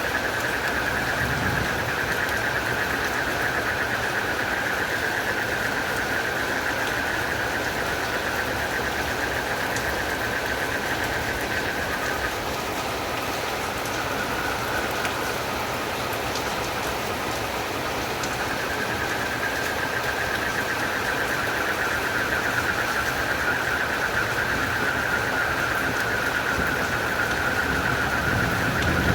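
Steady rain with a continuous night chorus of frogs and crickets, a high pulsing trill over the hiss of the rain. The chorus thins out for a few seconds around the middle, then comes back.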